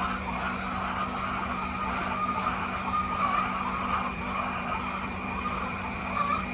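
Dense chorus of high-pitched peeping from a crowd of chickens, with short whistle-like notes standing out, over a steady low machine hum.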